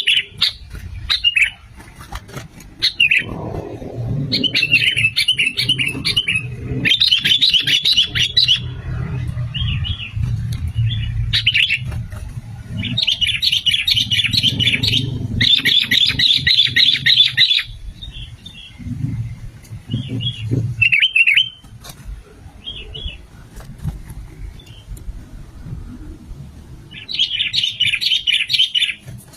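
Sooty-headed bulbul (kutilang) song: phrases of fast chattering notes lasting a few seconds each, with short gaps between them. A steady low rumble runs underneath.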